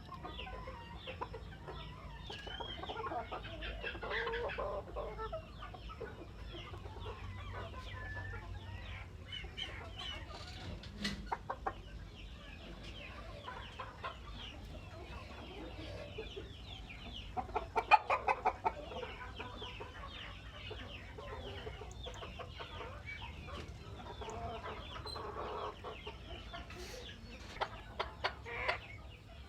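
Flock of chickens clucking, with a busy background of many short, high chirps throughout. A loud run of rapid clucks comes about two-thirds of the way through, and another short run near the end.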